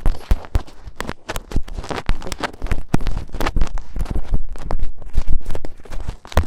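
Close-miked ASMR handling of a daruma: a dense, irregular run of scratching, tapping and rubbing, with many sharp clicks and soft low thumps.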